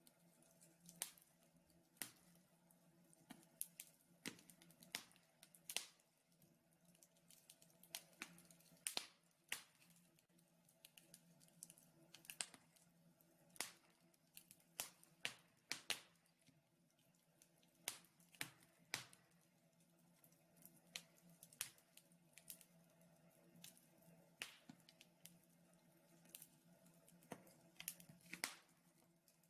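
Wood fire in a fireplace crackling, with irregular sharp pops and snaps, sometimes several in quick succession, over a faint steady low hum.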